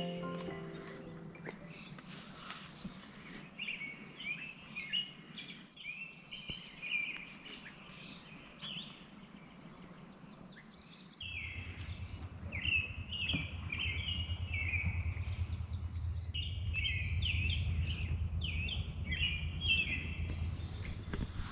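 Small birds chirping and singing in short repeated phrases. About halfway through, a low steady rumble starts abruptly underneath and continues.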